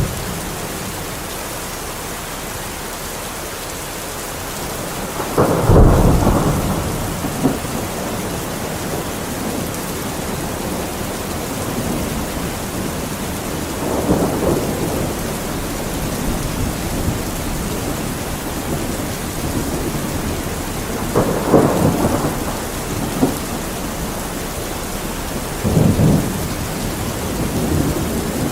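Steady heavy rain with low rolls of thunder rumbling in four times, the loudest about six seconds in.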